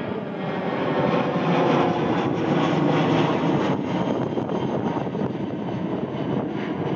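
Airplane passing on its engines: a rushing roar that swells to its loudest about two seconds in and then slowly eases, with a faint steady whine on top.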